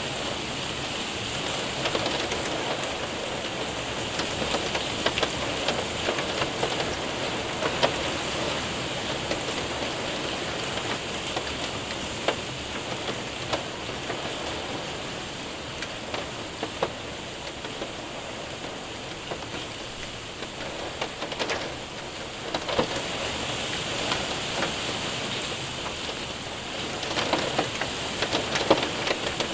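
Steady rain with hailstones striking a window and roof, a constant hiss broken by scattered sharp ticks of individual impacts, which grow denser near the end.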